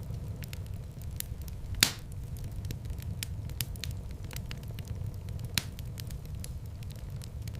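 Wood fire burning in a fireplace: a steady low rumble of flames with frequent small crackles, and two louder pops, one about two seconds in and one over five seconds in.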